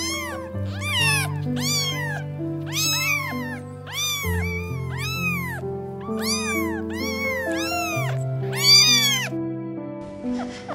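A cat meowing over and over, about two short rising-and-falling meows a second, over background music with long held notes; the meows stop near the end.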